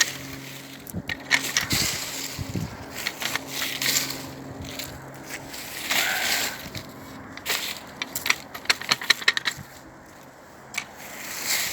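Crunching and scraping of burnt bonfire debris being cleared up, in irregular strokes, with a quick run of sharp clicks about eight to nine seconds in.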